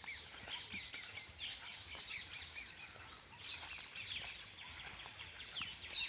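Small birds chirping in a rapid run of short, high, falling chirps that thins out midway, then a few louder downward-sliding calls near the end.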